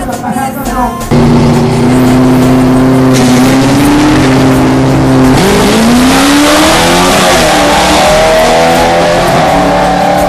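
Drag-racing vehicle's engine, starting abruptly about a second in and held at steady high revs for about four seconds, then rising in pitch as it accelerates away and settling at a higher pitch. It is loud throughout.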